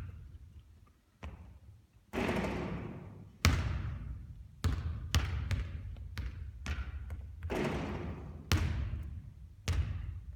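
Basketball bouncing on a hard court: about a dozen irregular sharp impacts, several with a long fading ring after them.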